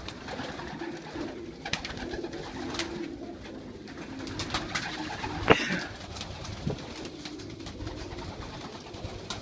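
Young racing pigeons cooing in a small loft, with scattered light clicks and one sharp knock about halfway through, the loudest sound.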